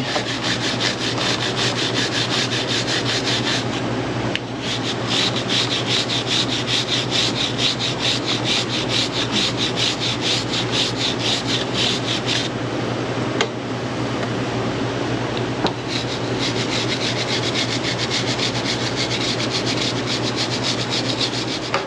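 Chain brush scrubbing a Yamaha R3's cleaner-soaked drive chain in rapid, continuous back-and-forth strokes, easing off briefly about four seconds in and for a few seconds in the middle.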